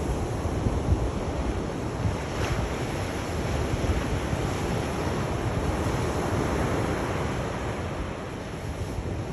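Sea waves washing ashore in a steady rush of surf, with wind rumbling on the microphone.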